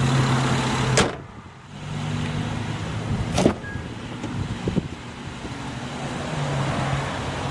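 Two sharp clunks from the 2011 Honda Pilot's body about two and a half seconds apart, with a steady low hum that comes and goes between them, as the SUV is shut and opened up while moving from the engine bay to the cabin.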